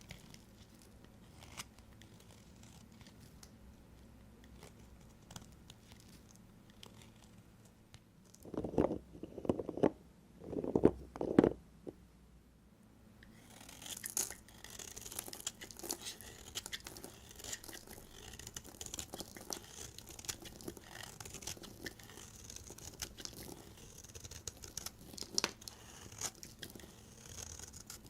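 Knife cutting and scraping through a bar of soap. A few louder, dull strokes come about nine to twelve seconds in, followed by a dense, crackly, crumbly scraping.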